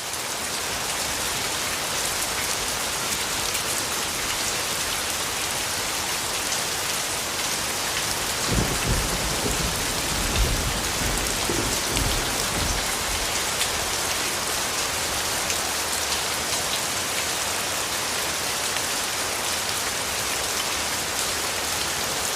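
Steady heavy rain falling, a dense hiss of drops hitting a surface. In the middle, low rumbles of thunder roll in under the rain for a few seconds.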